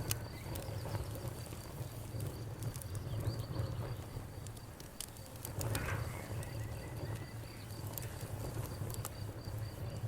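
Campfire burning: wood crackling with scattered sharp pops over a low steady rumble. A cricket chirps steadily in the background.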